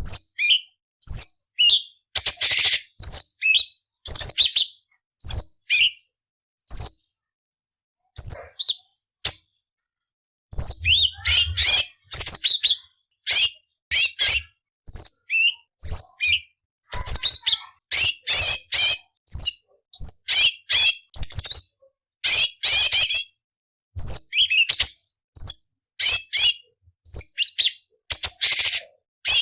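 Orange-bellied leafbird (cucak cungkok) singing: a quick series of short, sharp whistled notes sliding down in pitch, mixed with harsh rasping chatters, in bursts broken by brief silent gaps.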